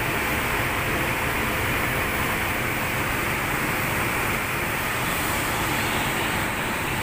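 A steady rushing noise, even in level throughout, with no distinct knocks or tones in it.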